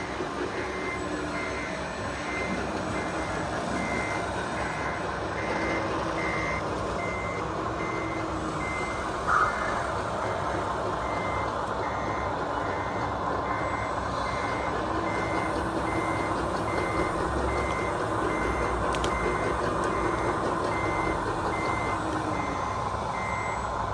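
Reversing beeper of an RC construction truck's sound module, beeping evenly a little over once a second over steady mechanical running noise. A brief louder tone sounds about nine seconds in.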